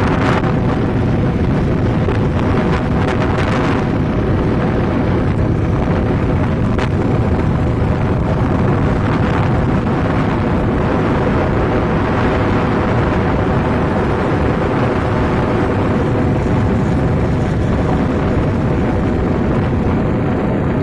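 Steady drone of a moving road vehicle's engine and tyres, with wind buffeting the microphone.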